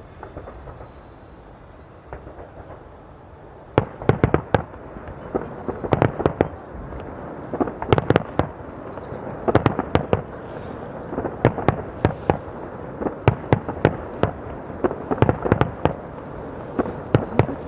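Fireworks going off: a low rumble for the first few seconds, then from about four seconds in a dense, rapid run of sharp bangs and crackles that keeps going.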